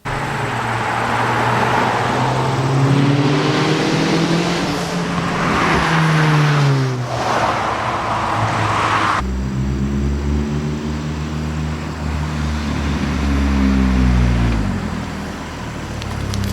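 Big-turbo VW 1.8T four-cylinder in a Mk4 Jetta GLI pulling hard through the gears: the engine note climbs steadily, drops at each upshift, and climbs again, several times over. Partway through the sound changes abruptly to a deeper, rumblier take of the same full-throttle pulls.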